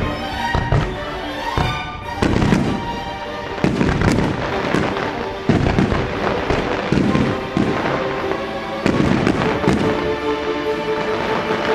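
Display firework shells bursting in rapid clusters with crackling, over orchestral music playing along with the show.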